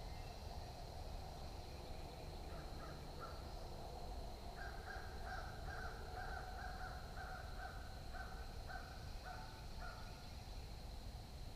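A crow cawing in the background: a few short calls, then a quick even series of about a dozen caws, about two a second, that stops near the end.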